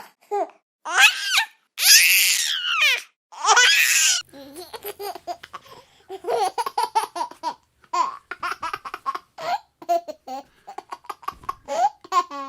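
A baby laughing: loud high-pitched squeals in the first few seconds, then quicker chopped giggles in bursts.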